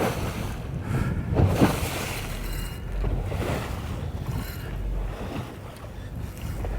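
Wind buffeting the microphone over water slapping against a small boat's hull on the open ocean, with a louder surge about a second and a half in.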